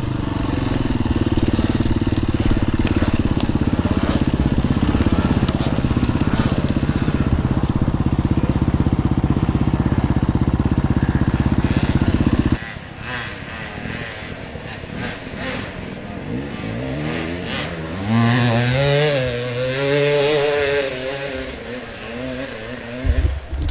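Enduro dirt bike engine running loud and close for the first half. It drops away suddenly about halfway through. Near the end a motorcycle engine revs up and down.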